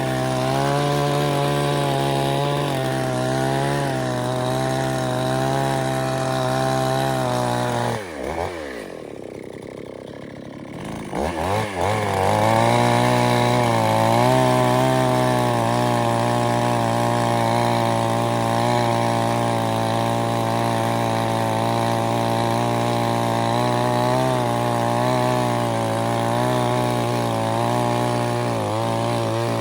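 Chainsaw running hard at high revs, cutting. About eight seconds in the engine drops sharply off the throttle, nearly to idle. Three to four seconds later it revs back up and runs steadily again.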